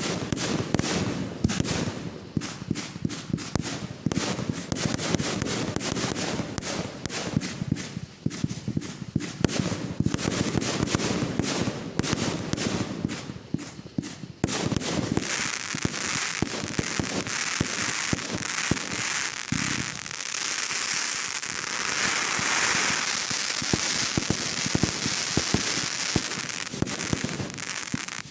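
Fireworks going off: a rapid, uneven run of pops, then from about halfway a continuous dense crackle.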